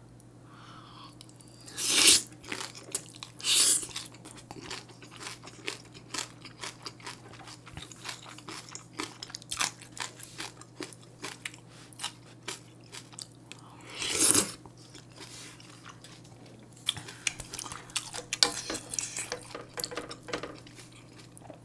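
Close-miked chewing and biting of mouthfuls of bibimbap and kimchi stew: a run of small wet clicks and smacks, with two louder brief noisy sounds about 2 and 14 seconds in.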